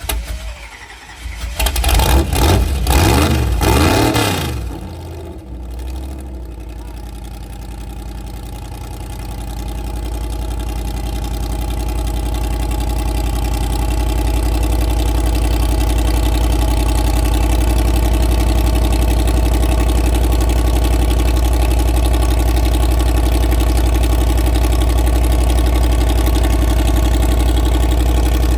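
Big pickup truck's engine cranking and firing in a loud burst over the first few seconds, then settling into a steady idle with a deep hum that slowly grows louder over the next ten seconds or so.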